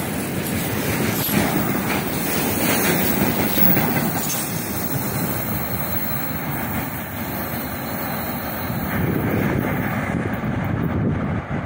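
A long freight train of loaded tank wagons rolling past close by: a steady rumble of wheels on the rails.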